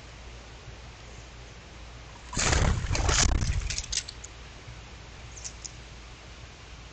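A bird's wings flapping in one loud flurry a little over two seconds in, lasting about a second and a half, with a few quicker flutters just after.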